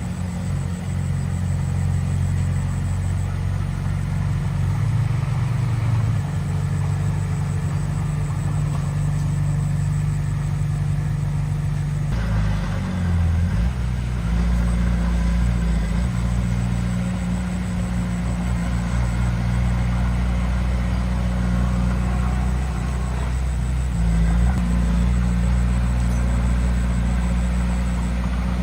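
Heavy diesel earthmoving machinery running with a steady low engine drone. Its engine note shifts twice, as the machine changes load or speed.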